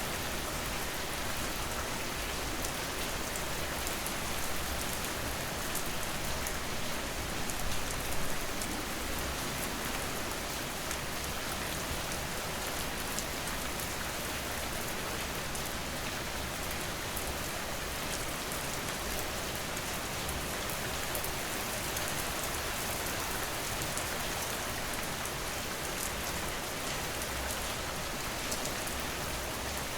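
Steady rain falling and pattering on a surface, an even hiss with many fine drop ticks.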